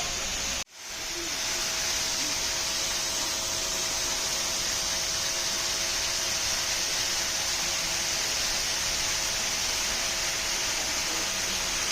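Steady rushing noise of water pouring down a waterfall. It cuts out abruptly under a second in and swells back within about a second.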